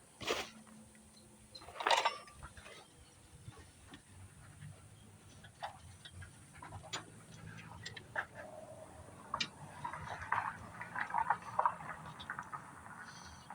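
Irregular light clicks and knocks of small parts and tools being handled while a fuel filter is fitted onto a small engine's fuel line, with two louder knocks near the start.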